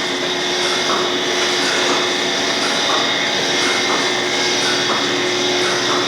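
Dairy milking machine's vacuum system running steadily, with a faint rhythmic pulse about once a second.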